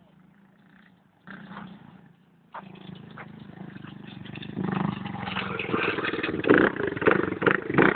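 Dirt bike engine running, growing steadily louder over the last five seconds, with voices faintly over it near the end.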